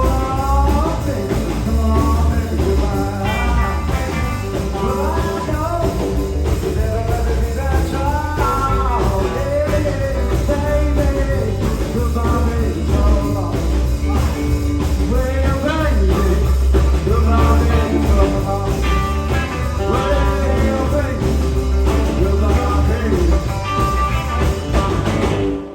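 Live blues-rock trio of electric guitar, bass guitar and drum kit playing a song, with a bending melodic lead over a heavy, steady bass. The sound cuts off suddenly at the end.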